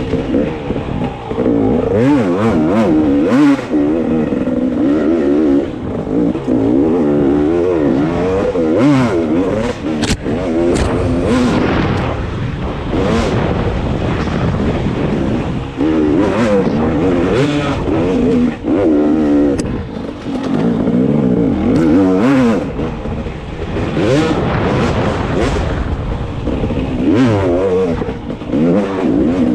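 Dirt bike engine being ridden hard, revving up and falling back again and again as the rider works the throttle and gears, with short rushes of noise over it.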